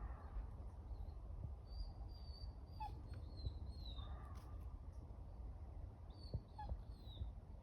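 Several short, high, thin squeaky calls from an unseen animal at night, sliding down in pitch and coming in three small clusters, over a steady low rumble.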